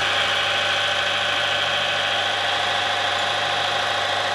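Timken-type friction and wear tester running steadily: its motor turns a steel ring against a test block in oil dosed with a nano tungsten disulfide (WS2) additive, giving an even hum with a high whine over it. The ring is turning under low friction while it is loaded.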